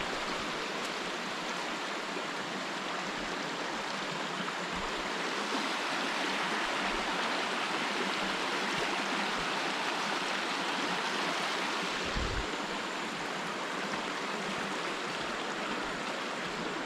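Steady rush of water from a spring-fed stream spilling over rocks, a constant hiss that swells a little in the middle.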